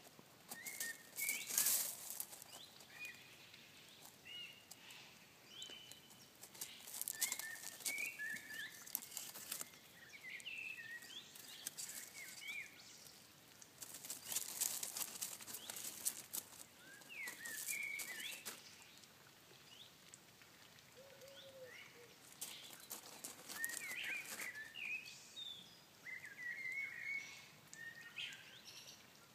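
Small birds chirping in short, scattered calls, with several bursts of rustling, splashy noise a second or two long that are louder than the calls.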